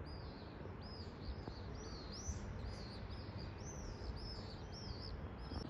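Small birds chirping over and over, about two or three short chirps a second, over a low steady background hum of the city.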